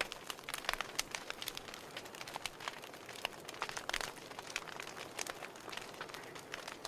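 Wood fire crackling: irregular sharp pops and snaps over a steady hiss of burning.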